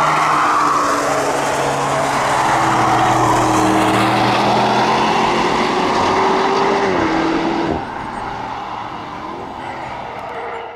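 Audi RS6 Avant's twin-turbo V8 running at a steady engine note as the car drives through the corners. About seven seconds in the pitch dips slightly, and shortly after the sound suddenly drops to a quieter, more distant note.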